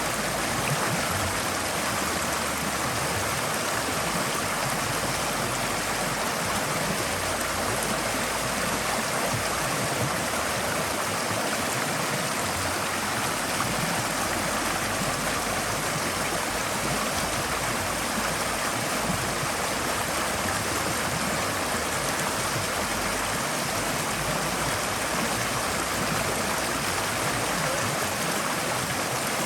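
Forest stream flowing steadily over rocks, a constant rush of water.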